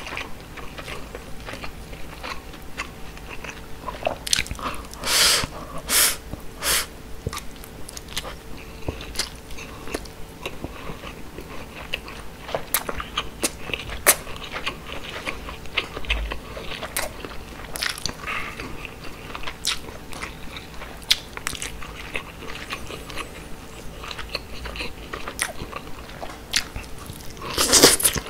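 Close-miked chewing of grilled mackerel and rice: a steady run of sharp mouth clicks, with a few louder bursts about five to seven seconds in and again near the end.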